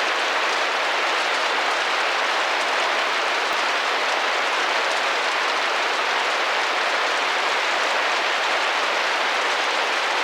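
Steady rain pattering against a glass window, an even hiss of many drops without let-up.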